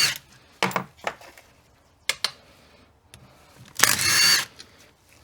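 Cordless power tool spinning a socket in one short burst about four seconds in, undoing the bolts on a Getrag 226mm limited-slip differential case, with metal clicks of the socket and bolts before it.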